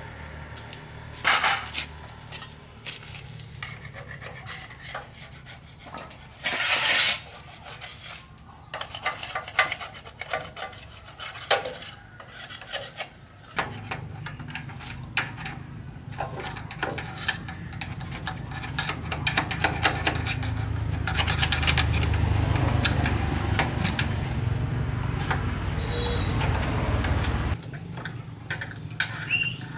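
Scraping and rubbing on metal parts, with scattered clatters and knocks, during repair work on a rice threshing machine. About halfway in, a steady low hum joins in and cuts off suddenly near the end.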